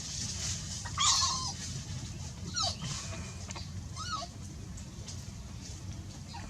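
A young animal crying in short, high, arching whimpers, three calls about a second and a half apart, the first the loudest; a strange cry that is put down to a cold and a runny nose.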